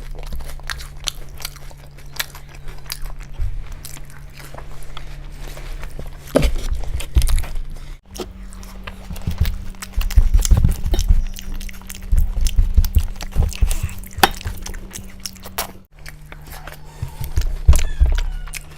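Close-miked chewing, biting and crunching of food, with wet mouth sounds, over a low steady hum. The hum changes pitch abruptly twice, at about 8 and 16 seconds, where clips are cut together.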